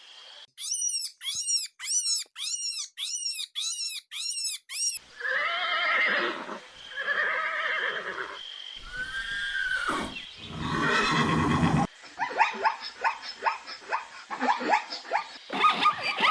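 A run of different animal calls, one after another. First comes a series of about eight high, arched chirps about half a second apart. Then two longer pitched calls, a louder rougher call, and a fast string of short pulses near the end.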